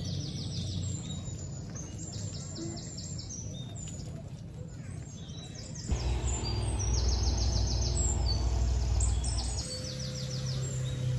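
Birds chirping in repeated quick trills over a low background of music, which grows louder and fuller about six seconds in.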